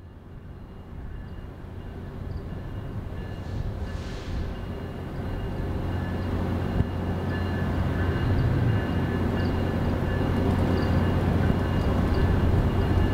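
Train approaching, its low rumble growing steadily louder, with faint steady high tones above it.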